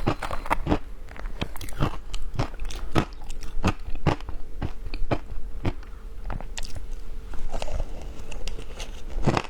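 Ice being bitten and chewed close to the microphone: a steady run of sharp, crisp crunches, two or three a second.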